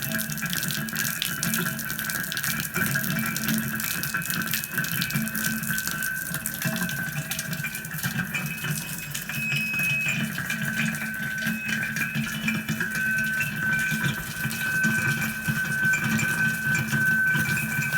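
Water running steadily, with dense crackling and a held high tone over it that grows stronger in the second half.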